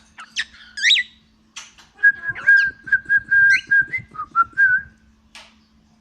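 Pet cockatiel whistling. It opens with a few quick rising and falling chirps, then about two seconds in starts a run of short whistled notes, mostly held at one steady pitch with a few dips, lasting about three seconds.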